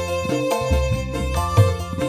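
A band playing a song over a sound system, with a heavy bass beat repeating several times a second and a long held melody note above.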